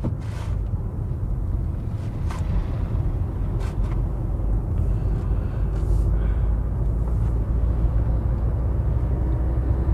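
Maruti Vitara Brezza's 1.5-litre petrol engine and road noise while driving: a steady low rumble that grows slightly louder.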